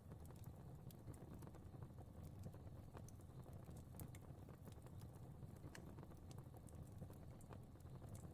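Fire crackling quietly: scattered irregular pops and snaps over a steady low rumble of flame.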